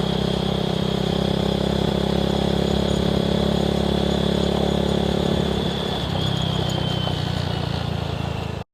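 Small single-cylinder motorcycle engine running at a steady cruising speed with wind noise. About six seconds in, the engine note drops a little as it eases off. The sound cuts off abruptly just before the end.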